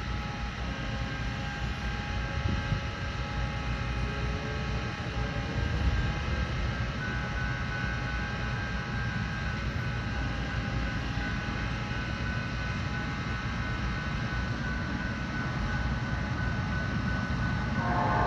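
Norfolk Southern freight train approaching in the distance: a steady low rumble of its diesel locomotives with several steady high tones over it. The tones grow louder just before the end.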